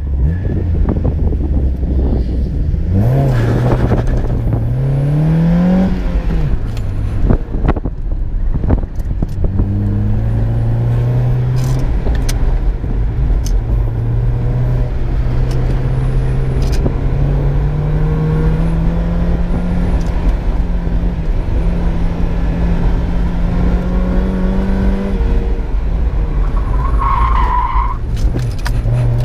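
1995 Mazda Miata's 1.8-litre four-cylinder engine, heard from inside the cabin through a test pipe and OBX Racing muffler, revving up and dropping back again and again through gear changes on an autocross run. Near the end the tyres squeal briefly as the car slides.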